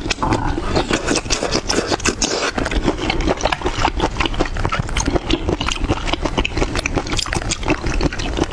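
Close-miked chewing of a large red shrimp: a dense, irregular run of small wet clicks and smacks.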